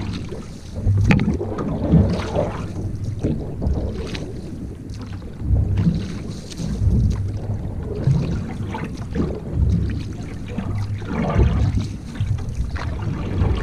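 Wind buffeting the microphone in uneven gusts, a low rumble, over water sounds from a canoe on the move.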